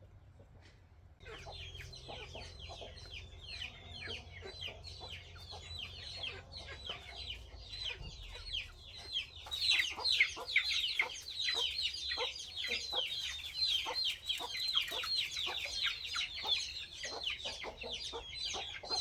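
Chickens calling: many short, quick, falling calls overlapping, starting about a second in and growing louder about halfway through.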